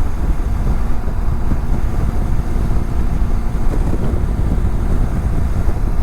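Steady wind rush over a helmet-mounted microphone, with a BMW F700GS parallel-twin engine running at a steady cruise underneath.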